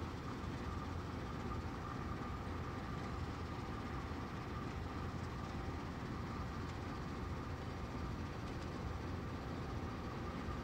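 Norfolk Southern freight train heard as a steady low rumble with a faint high whine held throughout.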